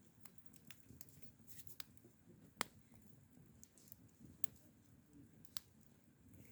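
Scattered sharp clicks and ticks at an irregular pace, one much louder about two and a half seconds in, over a faint low background.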